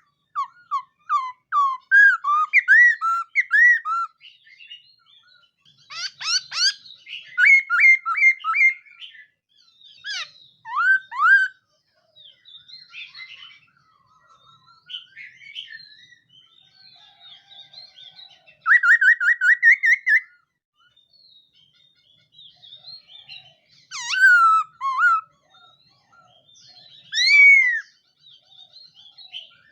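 A laughingthrush (khướu mun) singing loud, varied whistled phrases in bursts with short pauses, including a quick run of repeated notes near the middle.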